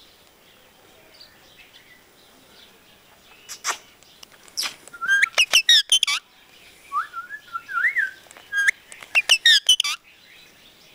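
Pet parrot chirping and whistling: a run of sharp, high chirps starting about four seconds in, a warbling whistle that glides up and down, then another quick run of chirps near the end.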